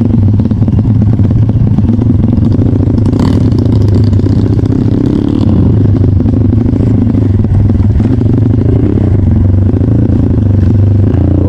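Trail motorcycle engine running at steady low revs, its pitch wavering a little, with a single clatter about three seconds in.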